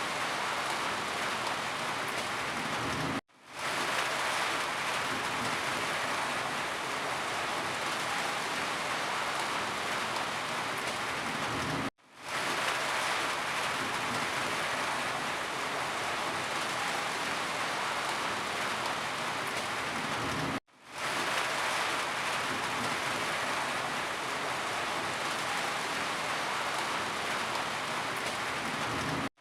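Steady rain falling, an even hiss. It cuts out completely for a moment about every nine seconds and fades straight back in.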